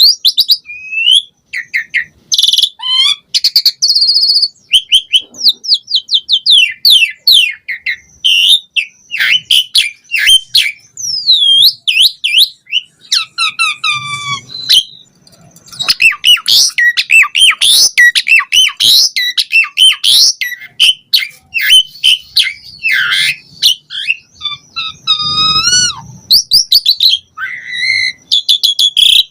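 Asian pied starling (jalak suren) singing a long, varied song of quick whistled notes, rising and falling glides and rapid trills, pausing briefly about halfway through.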